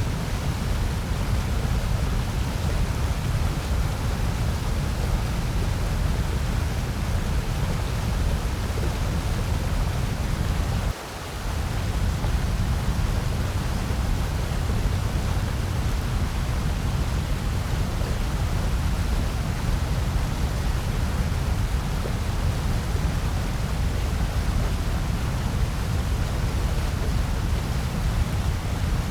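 Steady generated noise, sold as white noise but heavier in the low end, with a brief dip in the low rumble about eleven seconds in.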